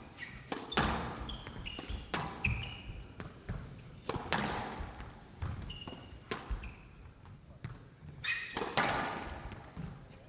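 Squash rally: the ball cracking off rackets and walls, each hit followed by a short echo in the court, with sports shoes squeaking on the court floor between shots.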